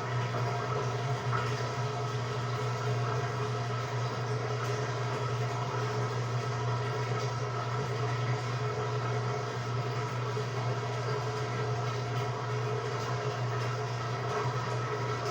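Samsung WA45T3200AW top-load impeller washer running steadily: a low motor hum with a few faint steady whining tones above it, even and unbroken.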